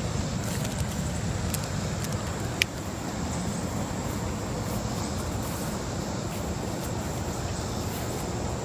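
Steady background noise, heaviest in the deep range, with a couple of faint clicks about one and a half and two and a half seconds in.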